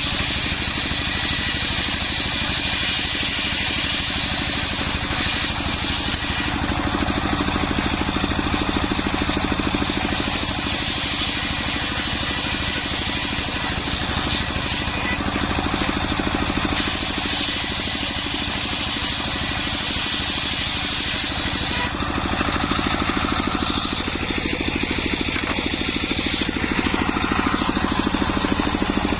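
Homemade circular saw rig running with a steady machine drone. A higher blade noise comes and goes in stretches of several seconds as sengon wood is ripped into rafters.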